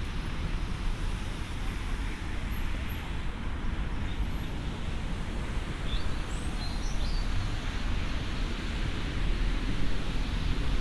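Steady outdoor ambience dominated by the low rumble of distant road traffic, with a few faint bird chirps about halfway through.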